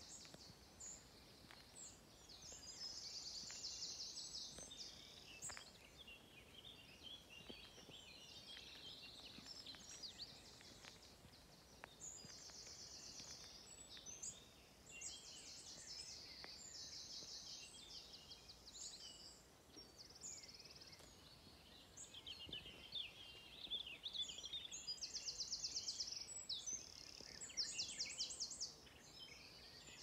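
Several songbirds singing over one another: high, fast trilled phrases a second or two long, repeated again and again, over a faint background hiss.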